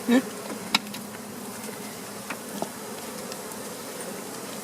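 Honey bees buzzing steadily all around, a close swarm drone, with a sharp click just under a second in and a couple of fainter ticks later.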